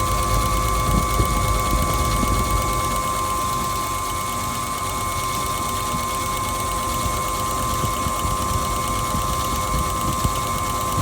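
Kenwood washing machine running: a steady high-pitched motor whine over an uneven low rumble.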